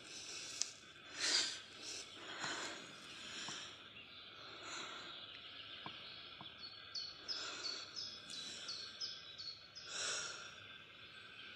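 Quiet woodland ambience with a bird giving a quick run of short, high chirps in the second half, and a few breathy rushes of sound, the loudest about a second in.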